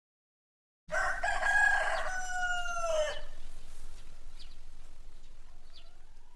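Rooster crowing once, a long cock-a-doodle-doo that starts about a second in and falls in pitch at its end, followed by a few faint chirps before the sound cuts off.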